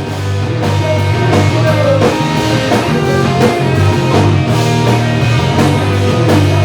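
Rock band music with a steady beat: electric guitar over bass guitar and a drum kit.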